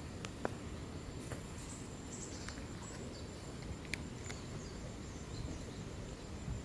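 Outdoor background noise: a steady low rumble with a thin, steady high tone, a few short clicks, and faint high chirps.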